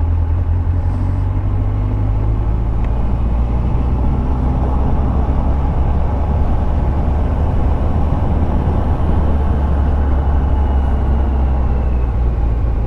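2001 Yamaha FZS1000 Fazer's inline-four engine running steadily while riding, with wind and road rush over it.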